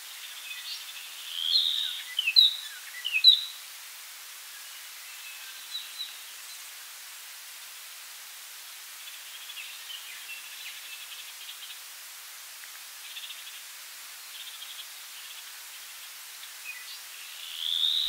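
Forest birds calling: a few clear whistled, sliding notes in the first three seconds or so, fainter chirping after, and another whistle near the end.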